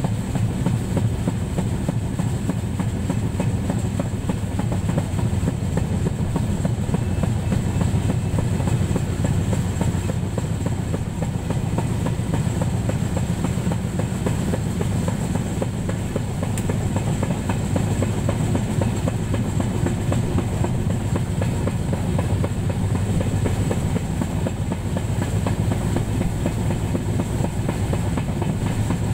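Moving train running steadily, with a continuous low rumble and clatter of wheels on rails, heard from on board.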